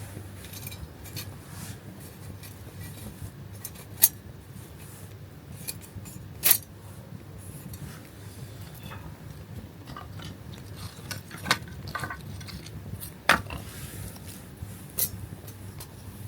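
Camping gear and cookware being handled: a string of sharp clicks and knocks, the loudest about four, six and a half and thirteen seconds in.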